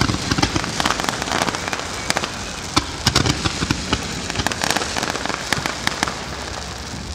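Fireworks going off: a dense, irregular crackle of many small pops, with sharper bangs standing out now and then.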